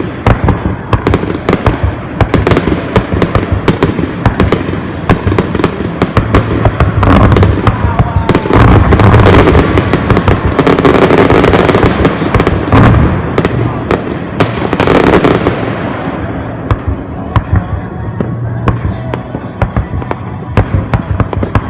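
Fireworks display: many rapid bangs and crackles from bursting shells, thickening into a dense, continuous barrage through the middle with a brief hissing rush, then thinning to scattered bangs near the end.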